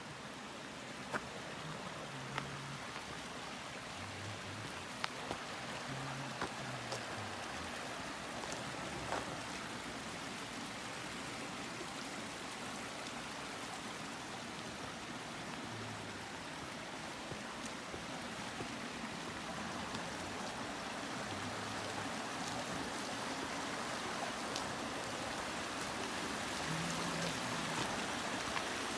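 Mountain stream running over rocks, a steady rush of water that grows slowly louder, with a few short sharp clicks scattered through it.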